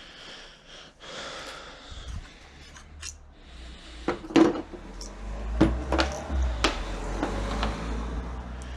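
Handling of tools and car parts: a string of sharp clicks and knocks starting about four seconds in, over a low rumble.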